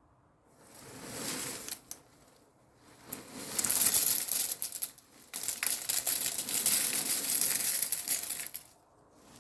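Cornflakes being poured from their packet into a bowl: a dry rattling patter of flakes with the bag crinkling, in three pours, the last two long.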